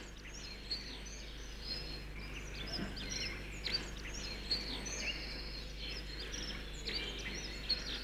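Small birds chirping, many short high calls scattered throughout, over a faint steady low hum.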